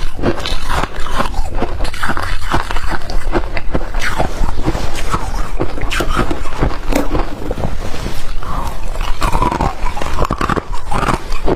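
Close-miked biting and chewing of freezer frost ice: dense, unbroken crunching made of many quick small crackles.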